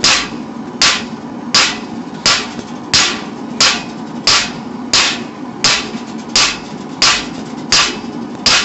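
A hand hammer strikes hot steel on an anvil in a steady rhythm, about 13 blows at roughly one and a half a second, while forging a knife blade. The anvil sits on a metal frame that makes it bounce. A steady low rumble runs underneath the blows.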